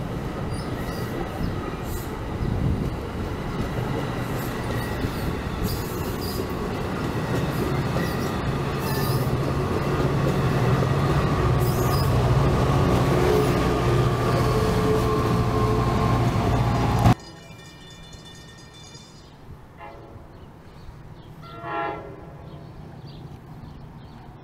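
Commuter train running close by, its locomotive and wheels growing louder, with a horn sounding in held tones. The sound cuts off suddenly about 17 seconds in, leaving quiet outdoor background with one brief sound near the end.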